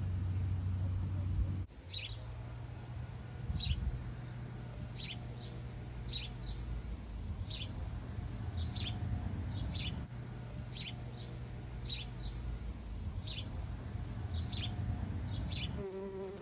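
A small bird calling over and over: short, high, falling chirps about one a second, beginning about two seconds in, over a low steady hum.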